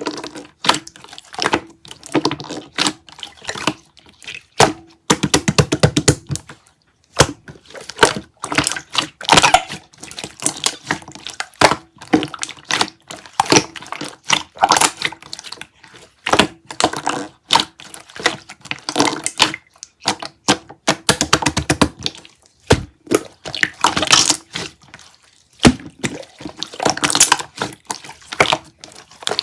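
A close, irregular run of clicks, taps and knocks, with brief pauses between flurries.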